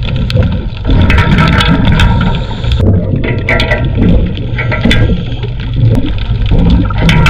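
Underwater water noise: bubbling and rushing with a low rumble, broken by sharp clicks and knocks.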